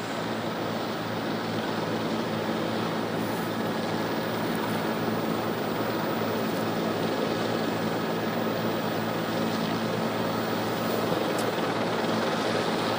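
Steady drone of a helicopter's engine and rotor, with a constant low hum and noise, heard over the live news feed.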